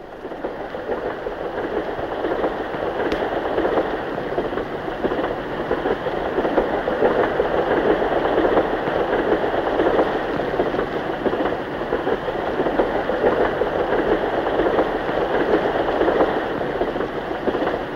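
Train running along the line: a steady rumbling noise that swells up over the first couple of seconds and then holds.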